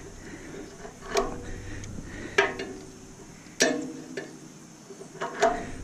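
About five sharp metallic clanks and knocks, each with a short ring, from tools and parts of a stainless steel bread steamer being taken apart; the loudest comes about halfway through.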